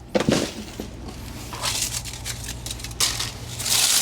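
Dry plant debris crunching and rustling as it is handled, in irregular bursts, loudest about three seconds in.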